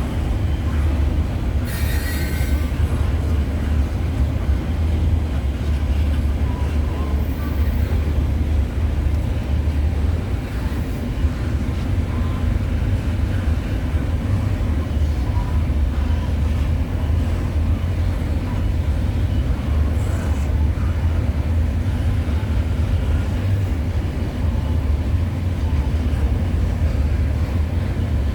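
Steady low rumble of a distant freight train, with a brief high-pitched squeal about two seconds in.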